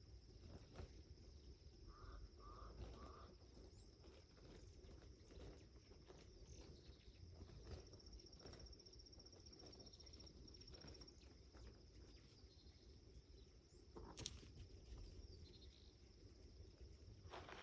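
Faint ambience with a steady high insect trill, dotted with small clicks and rustles, three short high notes about two seconds in, and one sharper click about fourteen seconds in.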